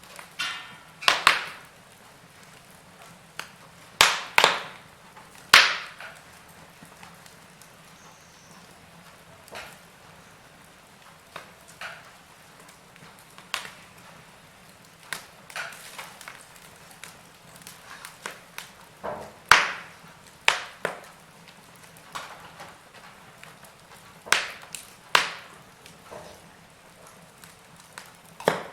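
Wood fire in a fireplace crackling, with sharp, irregular pops, sometimes in quick pairs, over a faint steady hiss.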